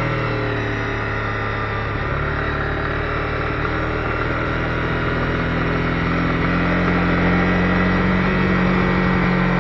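Honda CB250R's single-cylinder engine running at steady revs under way, with a slight shift in its note about two seconds in.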